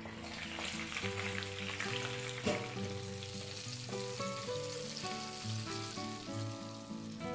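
Marinated chicken leg pieces sizzling in hot oil and ghee in a frying pan while a spatula turns them, with one sharp knock about two and a half seconds in. Soft instrumental music plays underneath.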